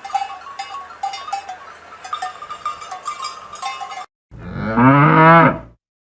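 A cow mooing once, loud and wavering in pitch, about four seconds in, after some four seconds of faint, sparse ringing clinks.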